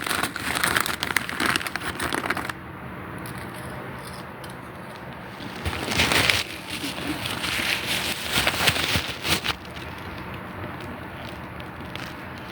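Crackling, crinkling handling noise in bursts: dense crackle at the start, then two more bursts around the middle.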